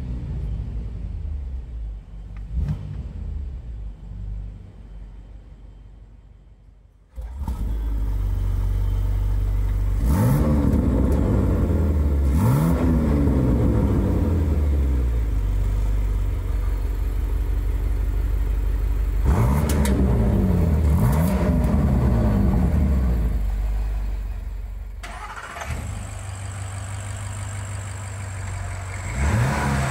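Range Rover Sport SV's 4.4-litre twin-turbo V8 starting with a sudden loud burst about seven seconds in and holding a fast idle, heard through its quad-tip active exhaust. It is revved four times in two pairs of quick blips. Then it settles to a quieter idle, rising again right at the end.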